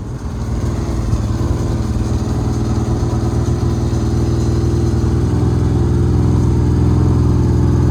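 Side-by-side UTV engine running steadily under a winch pull, its hum growing slowly louder.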